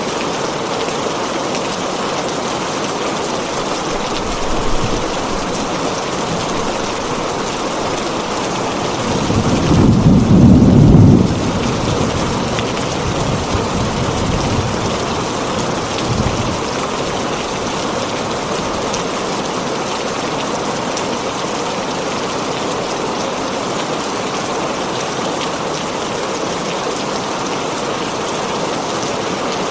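Heavy rain falling on a tin roof as a steady, even hiss. A rumble of thunder builds about ten seconds in and is loudest for about two seconds, with fainter rumbles a few seconds before and after.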